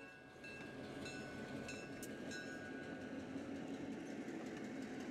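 Train sound effect: a moving train running along the track, a steady rumble with faint regular ticks.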